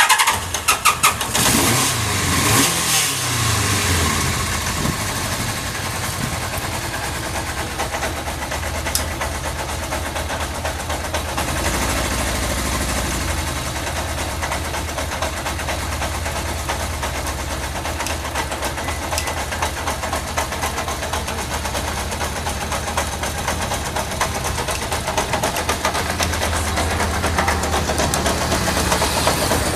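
Kawasaki GPZ550 air-cooled inline-four motorcycle engine started on its electric starter, catching at once and blipped a few times before settling into a steady idle. The start and the even idle are signs of a healthy engine.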